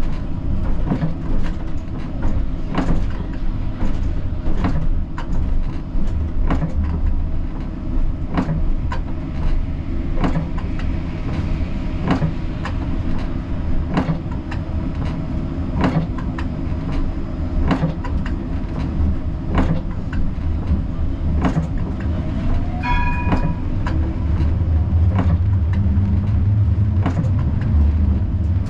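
Siemens Combino tram running along its track: a steady low rumble from wheels and running gear, with many sharp clicks and knocks from rail joints and points. A brief high pitched tone sounds about three-quarters of the way through. The rumble grows heavier near the end.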